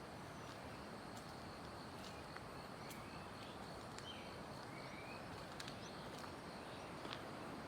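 Faint forest ambience: a steady high insect trill, with a few short bird chirps and scattered light clicks over a low, even rushing background.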